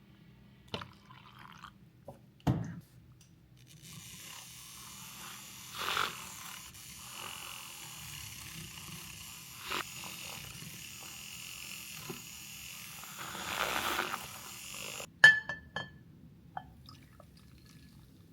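Kitchen work sounds: a few knocks and taps, then a steady hiss for about eleven seconds that stops suddenly. Near the end comes a sharp clink with a short ringing tone, the loudest sound, and a few lighter taps after it.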